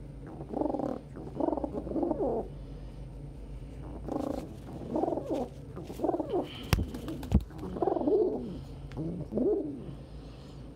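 Domestic pigeons calling: a run of short, repeated calls, about one a second, with two sharp knocks about seven seconds in.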